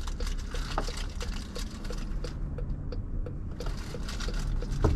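Rain spattering on a car and tyres hissing on a wet road, heard from inside the moving car over a low road rumble, with a light ticking about three times a second. The rain spatter drops away for about a second midway.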